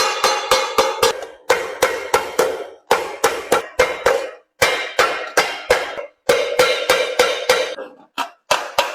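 Hand hammer striking sheet metal, about three to four blows a second in runs broken by short pauses, each blow ringing with a metallic tone.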